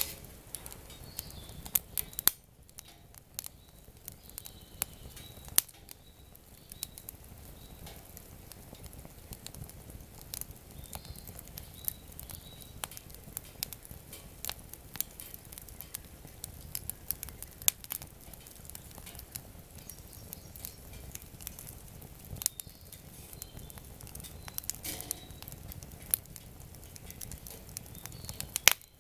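Wood campfire crackling, with irregular sharp pops and snaps from the burning wood over a quiet, steady background.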